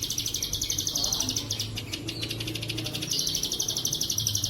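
Plain prinia (ciblek sawah) singing a rapid, buzzing pulsed trill of the cicada-like 'bren cililin' type, about twenty pulses a second. The trill runs almost without a break, thinning briefly about halfway through, with a few short chirps laid over it.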